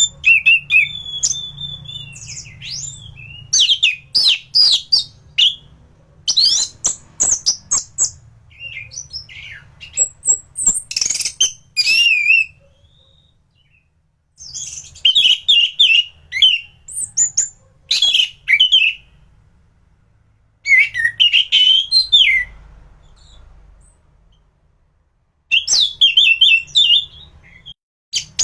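Orange-headed thrush (anis merah) singing hard: loud bursts of quick, varied whistles and trills, phrase after phrase, with two short silent pauses along the way.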